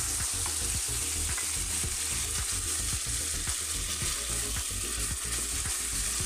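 Mushrooms and onions sizzling with soy sauce in a hot wok, while a spatula stirs and scrapes through them with many small clicks over the steady hiss.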